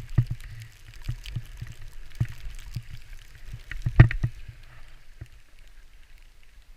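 Skis scraping over snow, with wind rumbling on the microphone and a run of uneven thumps, the loudest about four seconds in; the scraping fades soon after.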